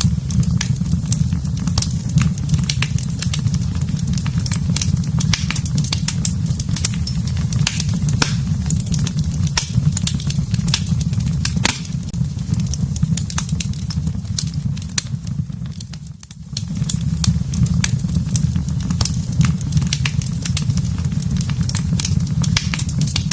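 Wood fire burning in a fireplace: many sharp, irregular crackles and pops over a steady low rumble of the flames. The sound drops away for about a second around sixteen seconds in, then comes back.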